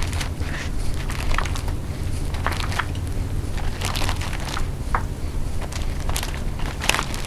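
Crinkling of a plastic bag and wet clicks and crackles as marinated chicken pieces are handled and laid in a baking dish, over a steady low hum.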